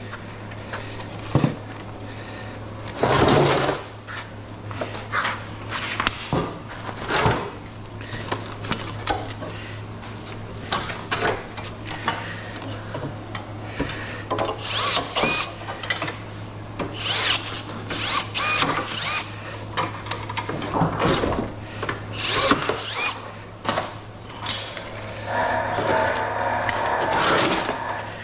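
Scrap radiator being taken apart with tools: irregular metal clanks, clicks and scrapes, with a power drill running for about two seconds near the end, over a steady low hum.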